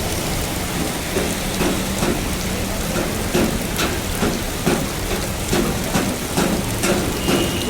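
Heavy rain falling steadily, with a regular tapping about twice a second over the top.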